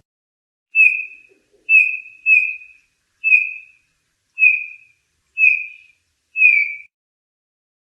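Eurasian bullfinch calling: seven short piping whistles, each falling slightly in pitch, about one a second.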